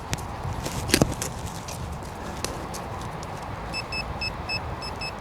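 Knocks and scuffs of a boot or spade on soil, the loudest about a second in, then from a little before four seconds in a steady high electronic beeping, about three or four short beeps a second, from the metal-detecting equipment.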